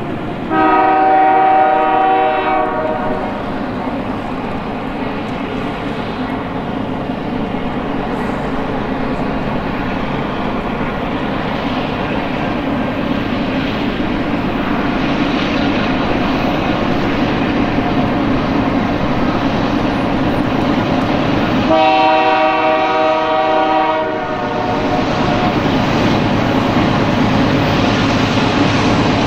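Canadian Pacific freight train approaching with two diesel locomotives and loaded grain hoppers. The locomotive's multi-chime air horn sounds twice: a blast of about two and a half seconds about a second in, and another of about two seconds near 22 seconds. Between the blasts the engines and rolling wheels rumble steadily, growing louder as the train nears.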